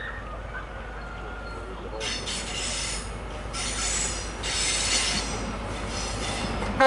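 InterCity 125 High Speed Train approaching under a steady low rumble. From about two seconds in, a loud high-pitched squealing whine comes and goes in four waves.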